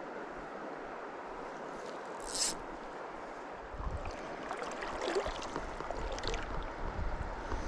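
Shallow mountain stream running over rocks, a steady rushing of water. A brief hiss comes about two seconds in, and irregular splashing and crackle join in over the second half.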